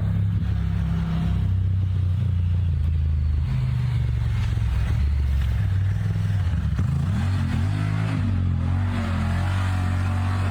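Side-by-side utility vehicle's engine running steadily, its pitch rising and falling a few times about two-thirds of the way through as it revs.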